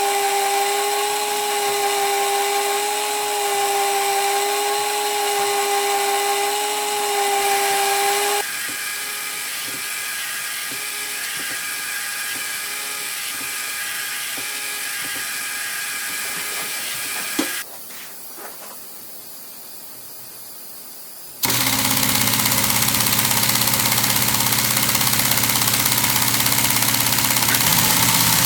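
Lego pneumatic beam engine running on compressed air, its valves and cylinders hissing as air exhausts. For the first eight seconds a steady whine sits over the hiss; the sound then drops to a quieter hiss with faint ticking, with a single knock and a quieter stretch about two-thirds through, and about 21 seconds in it turns to a loud hiss with a low hum.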